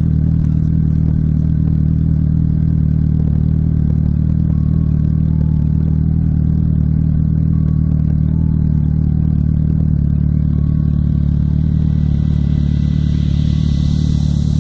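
Motorcycle engine running at a steady speed while riding, a constant low drone, with a rushing hiss building up over the last few seconds.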